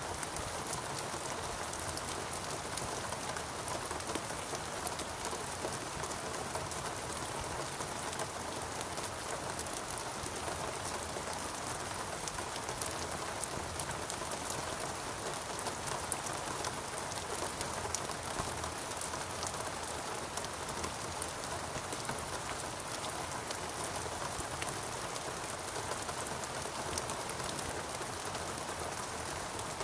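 Steady rain falling, an even hiss of many drops with fine patters of individual raindrops.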